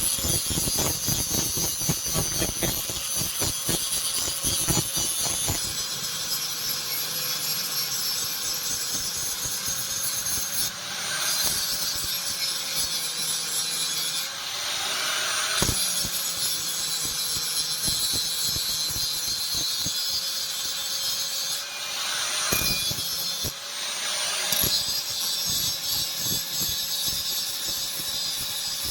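An electric grinder runs steadily against spring steel, with a harsh hiss over its motor tone. The motor's pitch sags and recovers a few times as the tool is pressed into the work.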